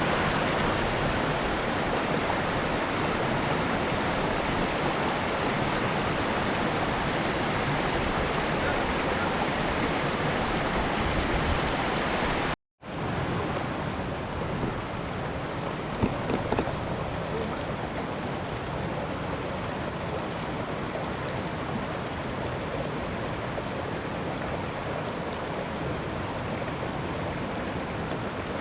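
Steady rush of fast-flowing water, even and without a beat. It cuts out abruptly about halfway through, then comes back slightly quieter.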